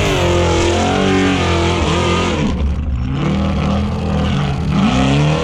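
Off-road race truck engine revving, its pitch rising and falling repeatedly, with a clear rising rev near the end.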